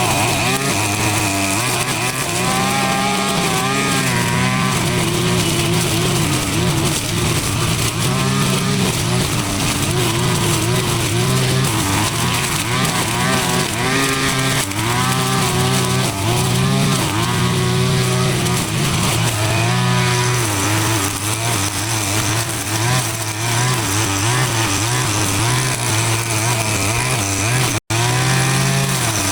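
A small petrol engine running continuously, chainsaw-like, its pitch rising and falling again and again as it is revved. It cuts out for an instant near the end.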